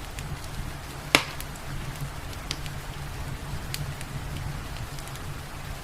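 Fireplace fire crackling, with scattered sharp pops and one loud pop about a second in, over a steady low rumble and a light hiss of rain.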